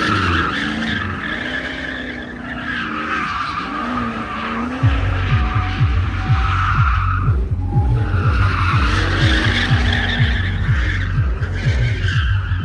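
Drift cars sliding, with tyres squealing and engines revving up and down as the throttle is worked. About five seconds in, a steady thumping bass beat joins underneath.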